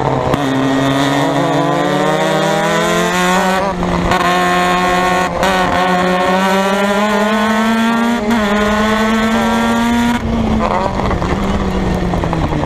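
Formula Mazda race car's rotary engine pulling hard, its pitch climbing steadily, with brief breaks at gear changes. About ten seconds in, the driver lifts off and the note drops and turns rougher.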